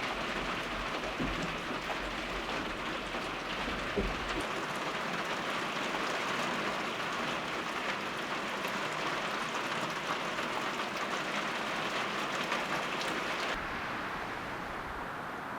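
Falling precipitation, a steady, dense patter. It turns quieter and duller near the end.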